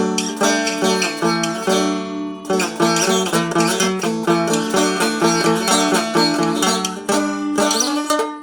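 Fretted dulcimer-type instrument tuned D-A-D being played: quick plucked melody notes over steadily ringing drone strings, the typical mountain-dulcimer sound.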